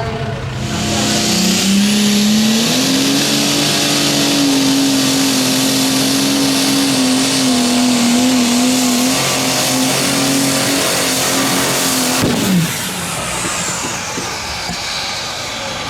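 Competition pulling vehicle's engine at full throttle during a pull, its pitch climbing over the first two seconds and then held high and steady. About twelve seconds in there is a sharp crack and the engine note falls away quickly.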